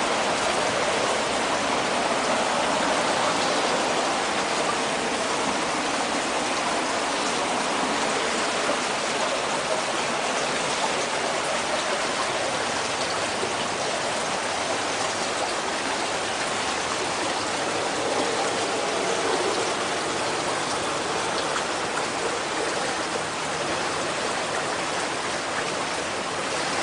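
Floodwater rushing steadily over a flooded track, an even, unbroken water noise.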